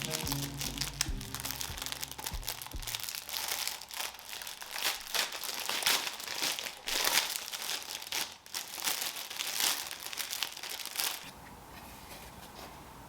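Crinkly wrapping being handled and crumpled, a dense run of rustles and crackles that stops abruptly near the end. Background music fades out in the first few seconds.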